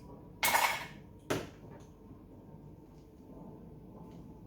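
Two sharp clattering knocks of tools or parts being handled: a louder rattle about half a second in, then a brief single knock just under a second later.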